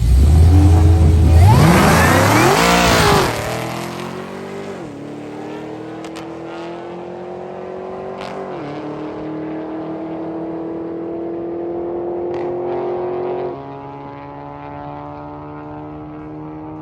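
Car accelerating at full throttle down a quarter-mile drag strip. The engine note sweeps up hard in the first three seconds, then climbs steadily through the gears, with upshifts about 5, 9 and 13 seconds in.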